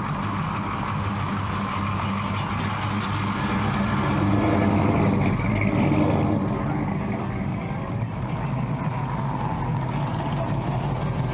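A car engine running at low revs, steady, growing a little louder about four seconds in and easing back about two seconds later.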